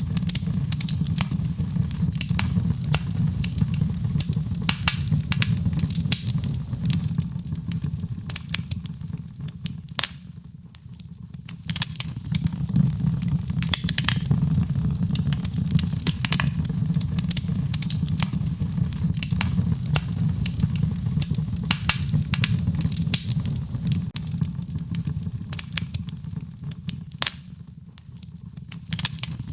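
Fireplace fire crackling and popping with irregular sharp snaps over a steady low rumble. The sound dips briefly twice, about ten seconds in and again near the end.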